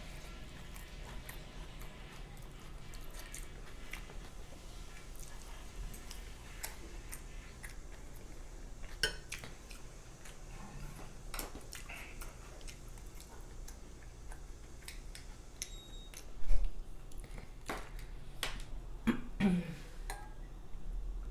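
Close-miked chewing and mouth sounds while eating breakfast, with scattered clicks of cutlery and dishes. There is one sharp, louder thump about sixteen seconds in.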